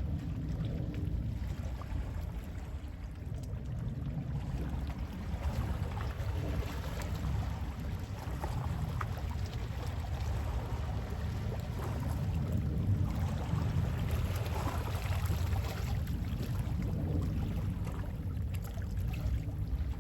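Calm sea waves washing in gently, swelling and easing every few seconds over a steady low rumble of sea wind.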